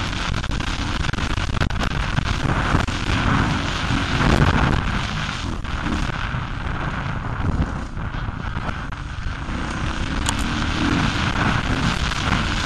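Four-stroke motocross bike engine at close range, revving up and down through the gears as it rides a rough dirt track. Heavy wind buffeting on the microphone and scattered knocks from the bumps are heard with it.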